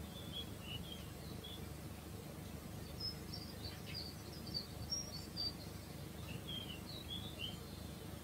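Small birds chirping in three short runs of quick, high-pitched chirps, the middle run higher than the others, over a steady low outdoor rumble.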